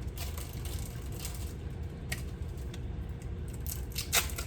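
Kitchen handling noises while cheese is added to milk: a few light clicks and taps, the sharpest near the end, over a steady low hum.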